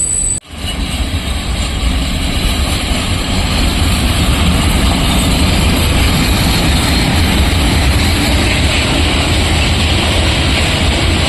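PKP class ET22 electric freight locomotive running with a steady, low rumble and hiss, growing a little louder over the first few seconds. A brief dropout about half a second in.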